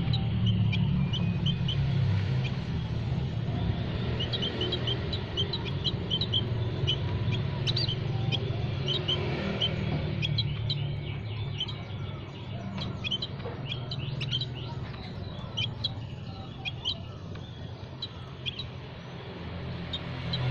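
Small songbirds chirping: many short, high chirps and twitters in quick succession, over a steady low rumble.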